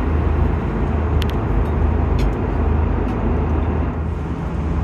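Steady cabin noise of an Airbus A330-200: a deep, even rumble with a rushing hiss over it, with a faint tick about a second in.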